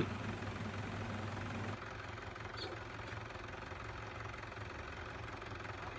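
Tractor engine running steadily, a low continuous hum that drops slightly in level about two seconds in.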